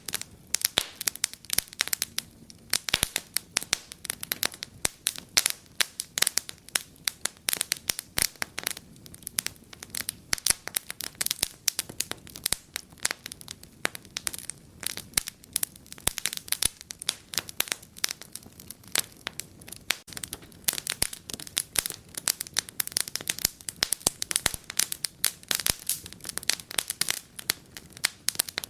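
Wood fire in a fireplace crackling steadily, with dense irregular pops and snaps over a faint low hiss.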